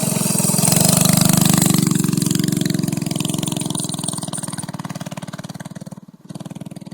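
Homemade minibike's 5.5 horsepower engine pulling away under throttle. It is loudest a second or two in, then fades steadily as the bike rides off.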